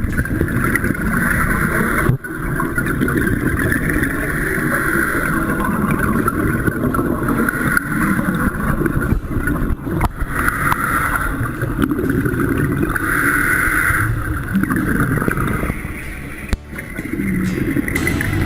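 A boat's motor running with rushing water and wind noise, broken by a few abrupt cuts.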